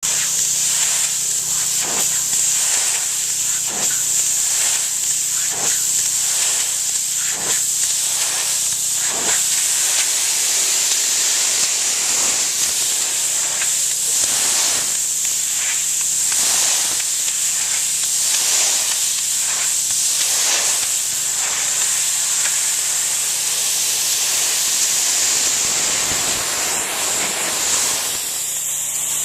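Pressure washer spraying a high-pressure water jet onto brick, a loud steady hiss with a low steady hum beneath it. Faint regular pulses come about every two seconds during the first third.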